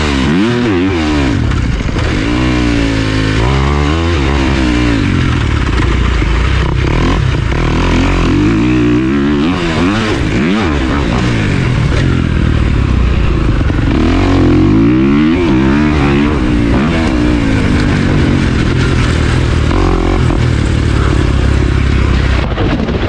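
Pit bike engine revving up and down over and over, its pitch rising and falling as it is ridden.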